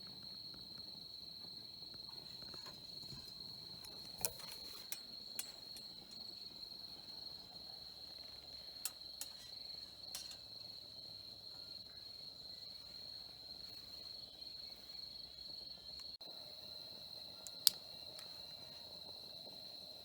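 Crickets chirping in one steady, unbroken high trill, with a few scattered sharp clicks, the loudest near the end.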